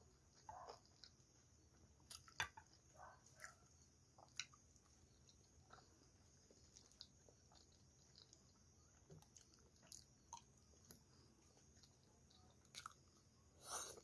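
Quiet, close-miked chewing of soft pasta, with scattered short mouth clicks and smacks and a louder smack near the end.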